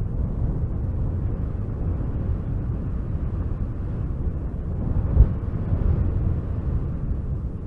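Wind blowing as a low, steady rumble. It swells in a gust about five seconds in, with one brief buffet at its peak.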